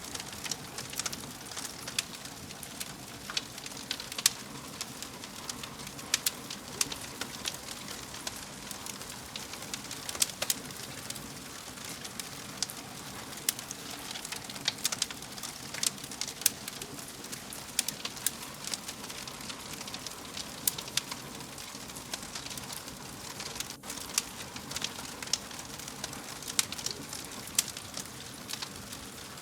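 Wood fire burning in a fireplace, with a steady low hiss and frequent irregular sharp crackles and pops.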